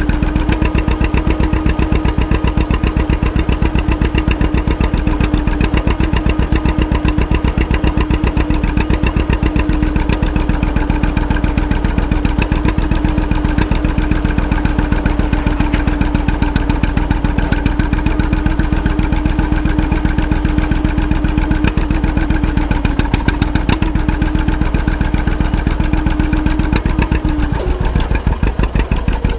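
Antique tractor engine running under load in a tractor pull, with a rapid, even firing beat. A steady tone over it drops out near the end and the beat turns ragged as the run ends.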